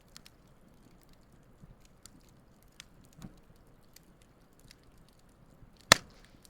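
Wood campfire crackling with scattered small ticks and snaps, and one loud sharp pop about six seconds in.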